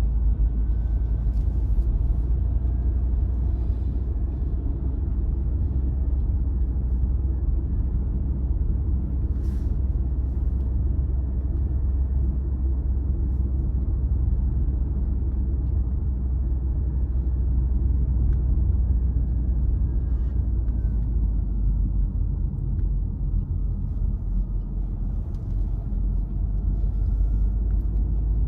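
A car driving at a steady pace, with a continuous low rumble from the road and engine and a faint thin whine that drifts slightly in pitch.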